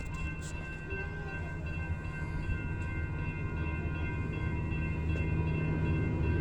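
Metrolink commuter train approaching, its diesel locomotive's low rumble growing steadily louder, with faint steady high-pitched tones over it.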